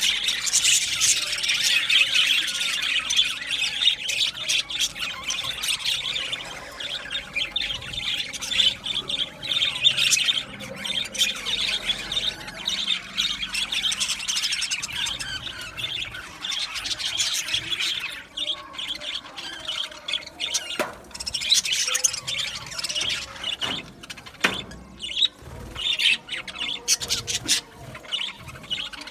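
A flock of budgerigars chattering, chirping and squawking continuously, many birds calling over one another, busier in the first half.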